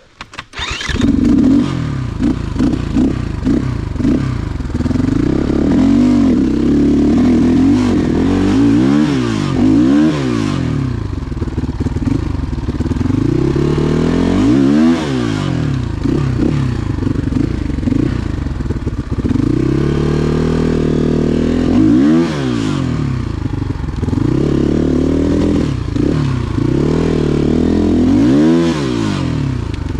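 Motorcycle engine bursting into life about half a second in, then running loud with the revs rising and falling again and again.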